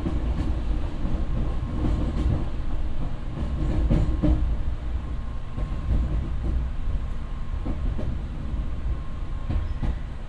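Electric commuter train running, heard from inside its rear cab: a steady low rumble of wheels on rail with scattered clicks over rail joints, loudest about four seconds in as the train comes out of a tunnel, with a faint steady whine under it.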